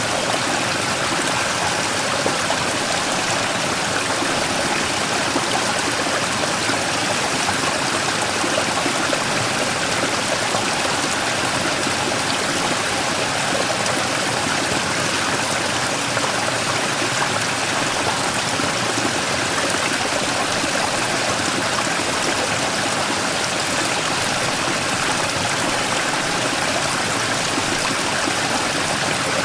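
Mountain stream rushing steadily over a large rock, a constant even splash and rush of water.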